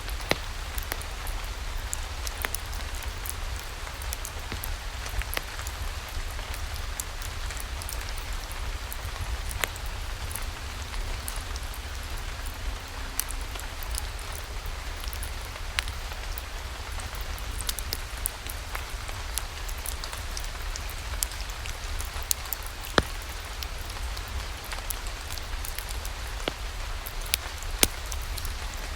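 Steady rain with a fireplace: an even hiss of rainfall under a low rumble, with scattered sharp crackles and pops throughout and a few louder ones in the second half.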